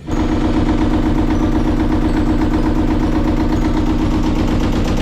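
Old inboard diesel engine of a 1987 Hughes Columbia 8.7 sailboat idling steadily with an even, rapid beat, running again after the boat sat unused for 15 years.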